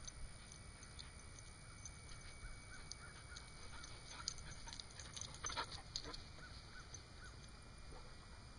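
Vizsla dog whining softly in a string of short rising-and-falling whimpers, with a few brief rustles around the middle.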